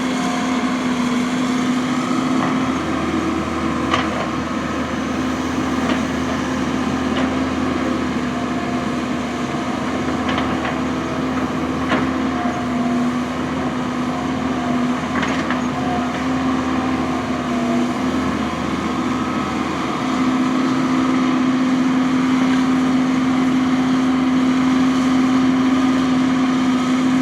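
Excavator's diesel engine running steadily as it digs, with a few sharp knocks scattered through; the engine gets louder about twenty seconds in.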